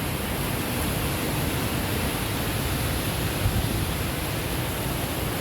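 Steady rush of a waterfall, its white water churning below, a loud, unbroken roar with no let-up.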